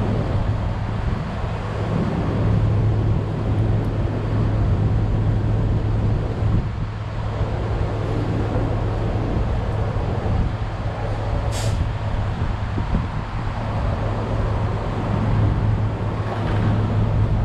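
A truck engine idling with a steady low hum, under wind noise, with one short high hiss about two-thirds of the way through.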